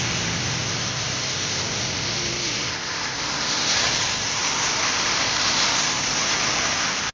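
Steady hiss of a vehicle driving in the rain, with engine and tyre noise mixed with rainfall and no single event standing out. It cuts off suddenly at the end.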